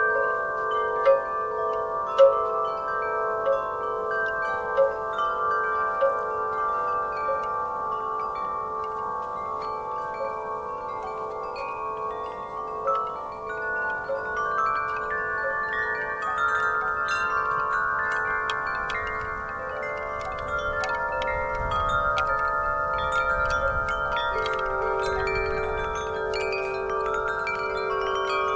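Metal wind chimes stirred by a breeze, their tubes struck again and again and ringing on in long, overlapping tones. A faint low rumble of wind sits beneath them for several seconds past the middle.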